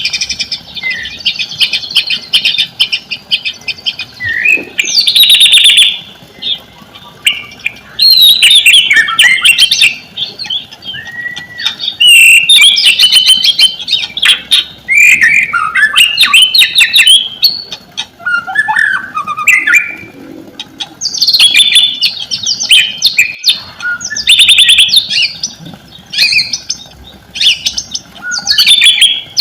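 White-rumped shama (murai batu) singing a loud, varied song: bursts of rapid trills, rattles and whistled slurs lasting a few seconds each, with short pauses between them.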